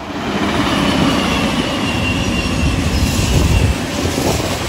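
CrossCountry Voyager diesel-electric multiple unit passing close at speed: engine and wheel-on-rail noise swelling to a peak and easing as it goes by, with a faint high whine that slowly drops in pitch.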